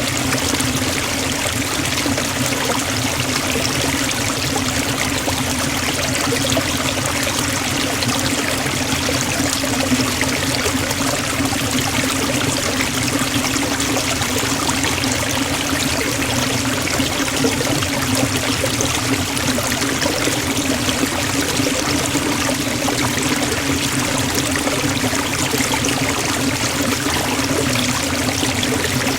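Waterfall and stream water rushing and splashing in a steady, unbroken hiss.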